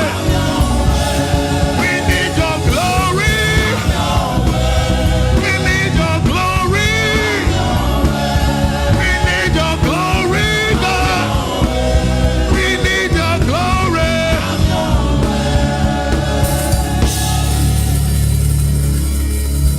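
A live gospel choir and band performing: singing voices over bass guitar and drum kit with a steady beat.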